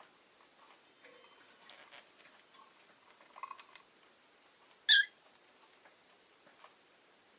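Rosy-faced lovebird giving a single short, loud chirp about five seconds in, with faint clicks and small rustling sounds around it.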